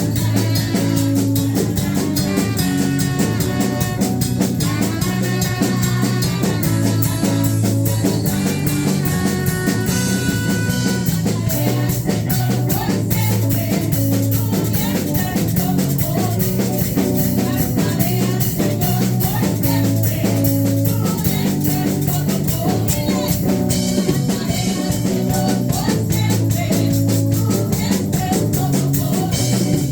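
Live praise-and-worship band playing an instrumental passage with drum kit, bass and keyboard or guitar over a steady beat.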